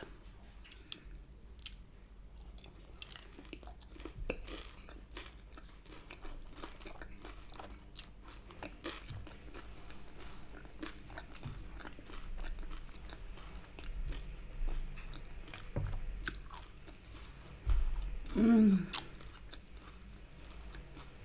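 Close-up mukbang chewing and crunching of crispy beef in Cantonese sauce: many small crunches and mouth clicks scattered throughout. Near the end comes one short voiced sound falling in pitch.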